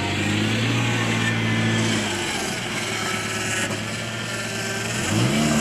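Pickup truck engine running as the truck backs over an exhaust tip. The engine note eases off about two seconds in and rises again near the end.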